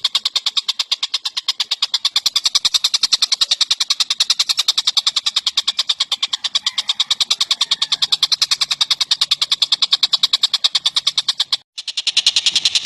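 Tengek cililin bird singing a long, rapid run of high, even, repeated notes, about ten a second, in a masteran song recording. The run breaks off briefly near the end and then starts again.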